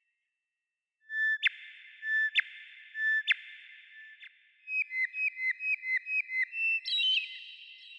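A songbird singing clear whistled notes: three notes about a second apart, each ending in a sharp upward flick, then a quick run of about nine downslurred notes and a higher trill near the end.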